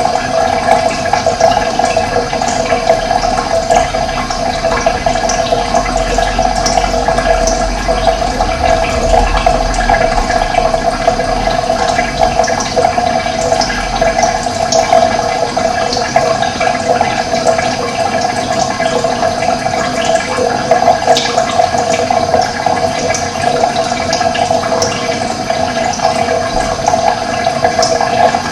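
Water running steadily, a continuous rushing flow, with short high bird chirps scattered over it. A low rumble sits underneath for several seconds in the first half.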